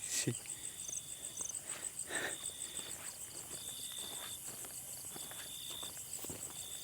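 Night insects calling: a fast, even, high-pitched pulsing trill with long buzzing chirps repeated about every second and a half, over a few soft footsteps.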